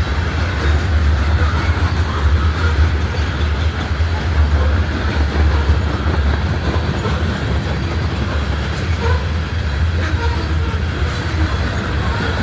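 A CSX freight train's grain hopper cars rolling past, with a steady noise of steel wheels on the rails.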